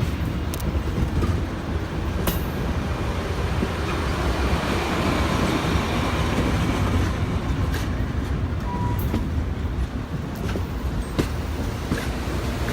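A train rolling past, a steady heavy rumble with scattered sharp clicks from the wheels on the rails.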